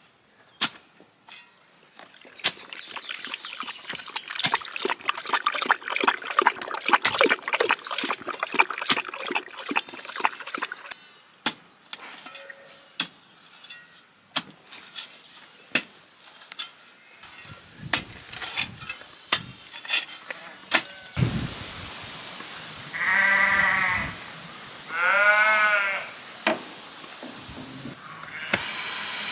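A sheep or goat bleating twice near the end, each call about a second long, with scattered clicks and knocks throughout.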